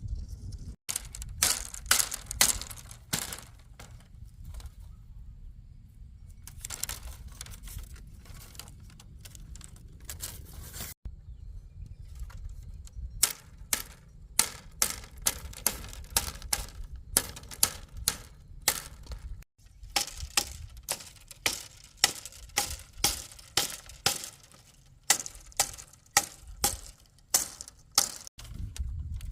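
Repeated sharp knocks from a hand tool striking, some with a clinking ring, in bunches early on and then as an even series of about two strikes a second, over a steady low rumble.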